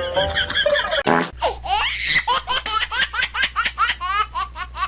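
A child laughing hard in quick, high-pitched bursts, about four laughs a second, starting about a second in.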